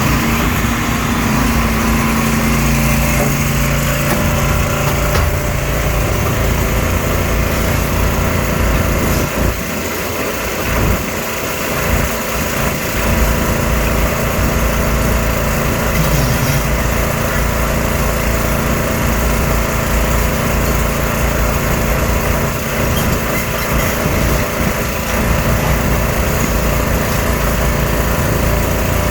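Diesel engine of a 0.7 m³-class hydraulic excavator with a semi-long front running steadily under load during demolition of a building frame, with a few faint knocks.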